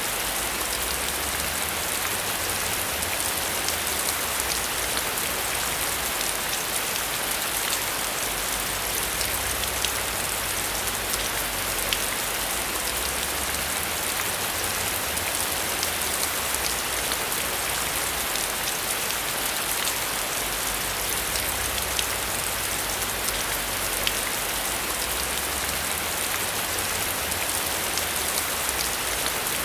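Heavy rain falling steadily, with many small sharp drop impacts over a continuous hiss and a low rumble underneath.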